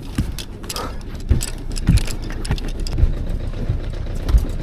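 Irregular clicks and knocks from a sailboat's deck gear and hull under sail, over a steady low rumble.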